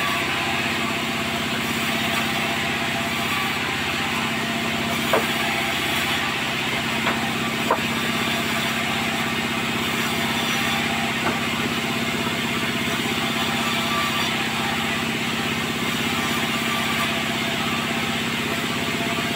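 Sawmill machinery running at a steady, unchanging pitch like an idling engine, with a few sharp knocks in the middle.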